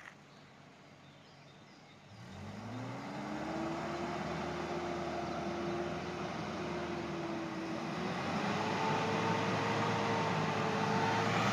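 An engine starts running about two seconds in and speeds up to a steady drone, then revs a step higher near the middle and holds there.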